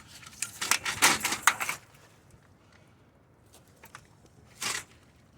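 Short metallic clicks and clinks of a hand tool working the screws of a bed frame, a quick cluster in the first two seconds, then a pause and one more clatter near the end.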